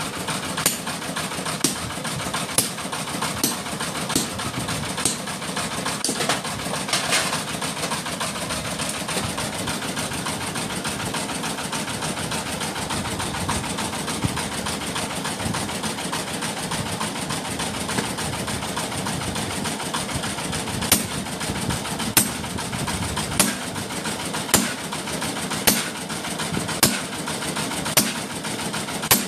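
Sharp hammer strikes on metal, about one a second, while rotary tiller blades are forged; they stop for a long stretch in the middle and resume near the end. Under them runs a steady engine-like mechanical hum.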